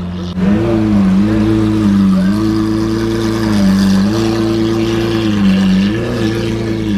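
A supercar's engine idling, its revs raised four times. Each time the note steps up a little, holds for about a second and drops back to idle.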